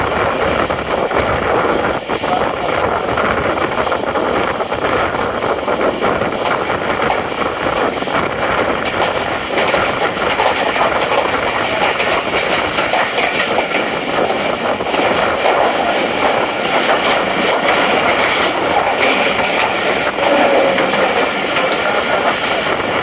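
Passenger express train running, the coach rumbling and clattering on the rails, heard from inside.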